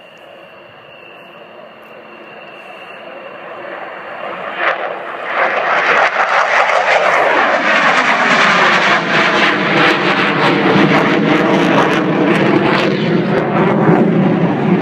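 F-16 fighter jet flying past: its engine noise swells from faint to loud over the first five seconds, then stays loud with a shifting, swirling phasing as the jet goes by.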